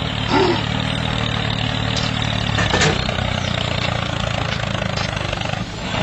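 Tractor engine running steadily at an even pitch, with one sharp click about three seconds in.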